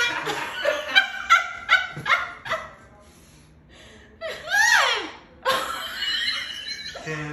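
Laughter: a run of short, quick laughing pulses, a pause, then a high rising-and-falling whoop and a longer laughing stretch.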